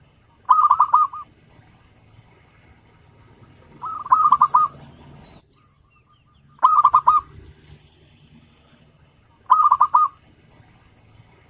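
Zebra dove (perkutut) cooing: four phrases of quick, rippling coo notes, one about every three seconds.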